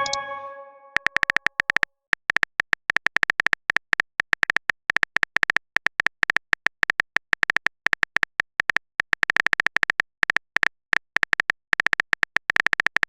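Typing sound effect for an on-screen chat: a fast, irregular string of short, high, same-pitched beeps, like letters being typed one by one, starting about a second in. Before it, a chime rings out and fades over the first half second.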